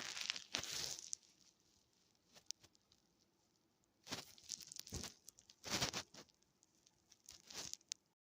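Several short bursts of crinkling, rustling noise, in four groups separated by quiet.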